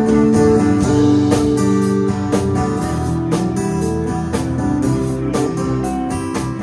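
Live band playing an instrumental passage led by guitars, with drums keeping a steady beat.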